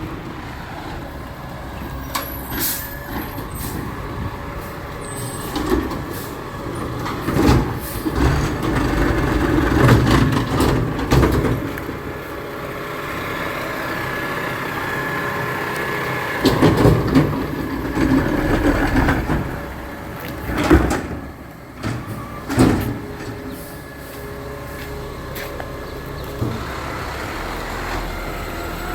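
Garbage truck working: the engine runs throughout and grows louder in two longer spells, with several sharp clanks and knocks.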